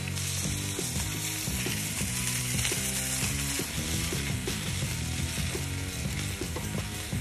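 Polish sausages and onions sizzling steadily on a Blackstone flat-top griddle, under background music.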